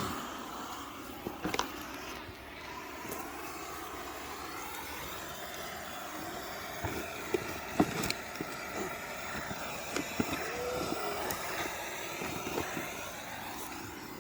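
Large bonfire of scrap pallet wood burning: a steady rushing with scattered sharp crackles and pops.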